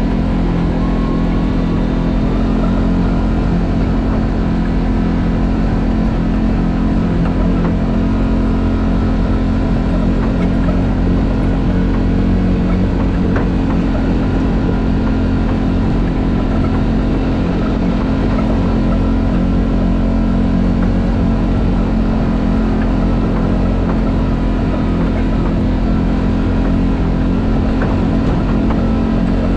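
A vehicle engine running at steady revs.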